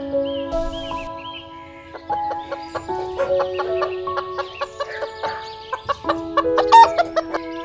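Chickens clucking over background music of sustained and plucked notes, the clucks bunching together toward the end.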